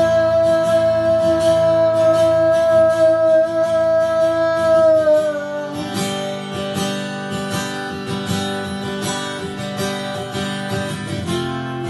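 Acoustic guitar strummed in steady chords under a long held sung note that trails off with a slight drop about five seconds in. The guitar carries on alone after that, as an instrumental break in the song.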